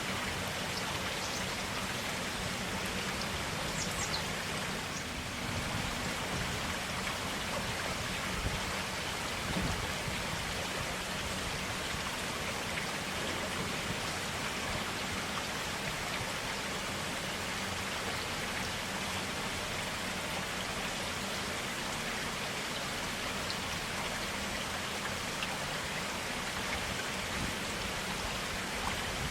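A forest stream running steadily, a constant rush of water with small splashes.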